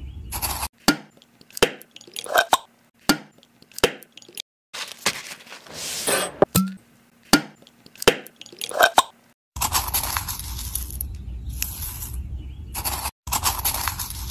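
Kitchen handling sounds while beef is seasoned in a plastic tub: a run of sharp clicks and taps from spice containers and a bottle, with a longer rushing noise around the middle. From about ten seconds in there is a steady scratchy noise with a regular pulse.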